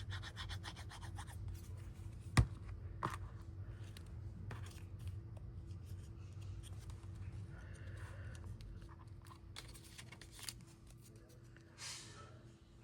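Light paper-crafting handling at a table: small clicks and rustles of paper and tools, with one sharp tap about two and a half seconds in and a brief rustle near the end, over a low steady hum.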